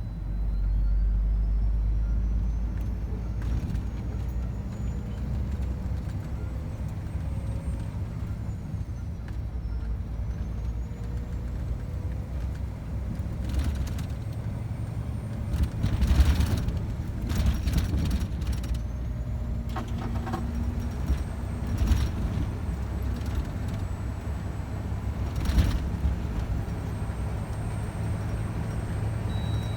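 Scania truck's diesel engine running steadily on the road, a low drone that swells louder for the first couple of seconds. A faint whistle rises and falls above it, and several short sharp knocks or rattles come from about halfway on.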